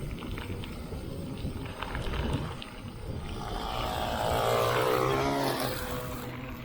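An engine passing by, its drone swelling to loudest about four to five seconds in and falling in pitch as it goes past, over a steady bed of riding noise.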